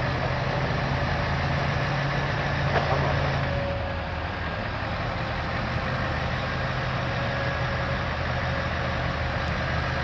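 Heavy diesel engine of a heavy-haulage vehicle running steadily at a low, even pitch. It eases off slightly about four seconds in.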